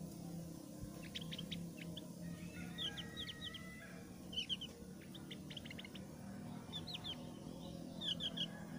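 Opior jawa (Javan grey-throated white-eye) of the thick-eyebrowed type calling: repeated clusters of short, sharp, high notes sweeping downward, mixed with chattering phrases, over a faint steady low hum.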